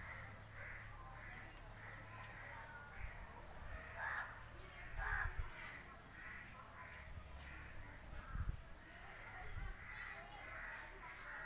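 Birds calling over and over in short repeated calls, with a couple of low thumps partway through.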